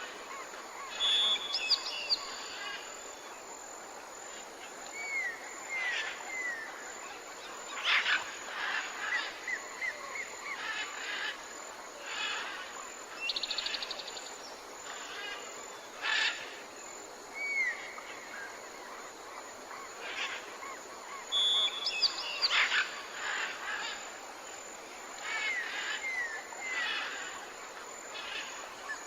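Several songbirds calling and singing: short chirps, whistled notes that glide up and down, and a quick buzzy trill over a steady background hiss. The same run of calls comes round again about twenty seconds later.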